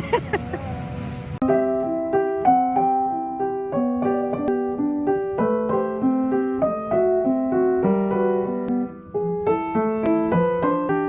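Background piano music: a light melody of evenly paced, repeated notes over a steady accompaniment, starting about a second and a half in.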